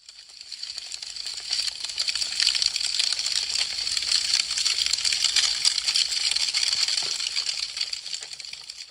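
Wood fire crackling: a dense run of small snaps and pops over a hiss. It fades in over the first couple of seconds and fades out near the end.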